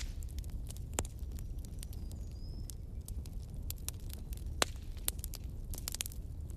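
Wood bonfire burning, crackling with frequent sharp pops over a low steady rumble. Two louder pops come about a second in and just past the middle.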